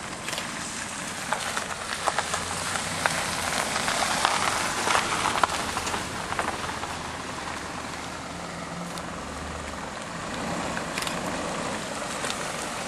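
A small truck driving slowly in, its engine running low beneath a steady crackling and crunching noise with many small clicks.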